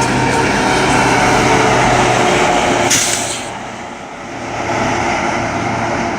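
BNSF coal train rolling past at speed, a loud steady rumble of wheels on rail. About three seconds in there is a brief high hiss, then the noise drops away and builds again.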